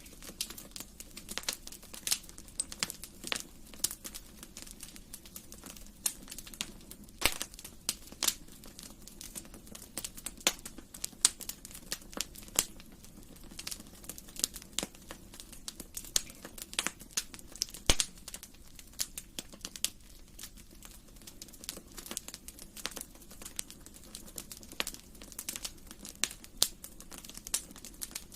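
Wood fire crackling in a fireplace: a continuous scatter of irregular sharp pops and snaps over a low steady rush of the flames, with a few louder pops.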